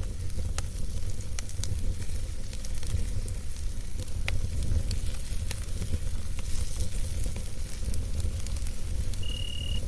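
Campfire crackling, with many small sharp pops and ticks over a steady low rumble. Near the end a single short, steady high-pitched tone sounds for about half a second.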